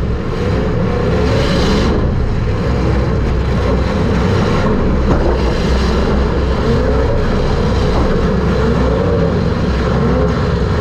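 Super Stock race car's engine running, heard from inside the car, with a steady low drone and revs that rise and fall throughout.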